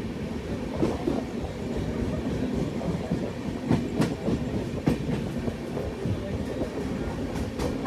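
Express passenger train running along the track: a steady rumble of the coach with sharp, irregular clicks from the wheels passing over rail joints.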